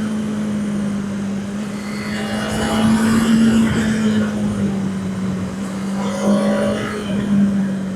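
Honda CB650R's inline-four engine running steadily under way, its pitch holding nearly level and easing slightly down.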